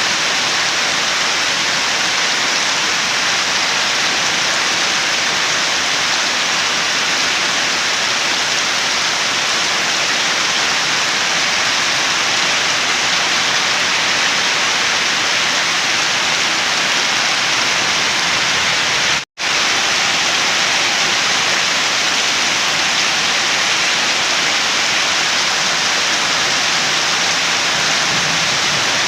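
Steady, heavy rainfall, an even dense hiss of falling drops. It cuts out completely for a split second about two-thirds of the way through, then resumes unchanged.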